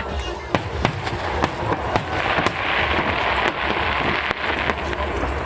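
Aerial fireworks bursting: a rapid, uneven series of sharp bangs, about a dozen over a few seconds, over a steady low rumble.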